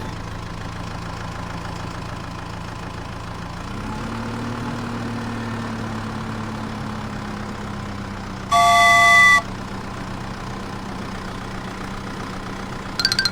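Cartoon vehicle engine sound effect running steadily, rising a little in pitch about four seconds in and then holding. A single horn honk lasting about a second sounds a little past the middle.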